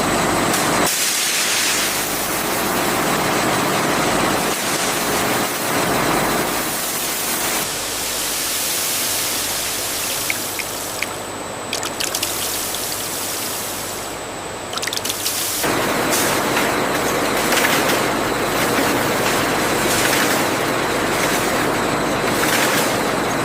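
Pressurised water sprayers on a factory washing line, a loud steady rushing hiss mixed with machine noise, changing abruptly in character a few times.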